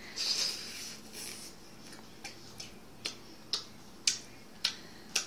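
A person chewing a mouthful of Jell-O: a short breathy sound at the start, then wet mouth clicks and smacks, about two a second.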